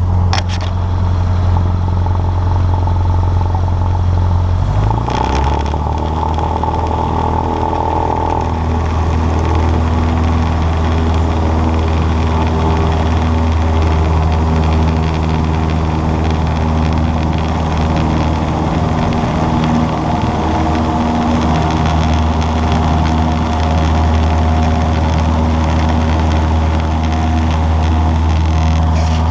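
Cessna 152's four-cylinder Lycoming aero engine and propeller running at a steady drone, with a brief change in the engine note about five seconds in.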